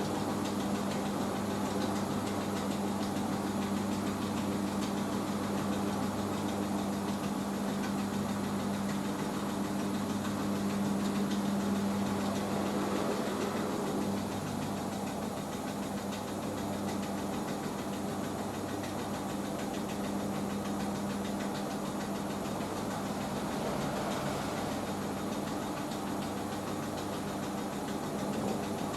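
Hoover H-Wash 500 washing machine running a rinse spin: the motor and drum give a steady hum, swelling slightly about ten seconds in and easing a little after.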